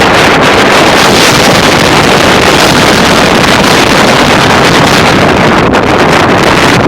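High wind buffeting the microphone: a loud, continuous roaring rush with no let-up.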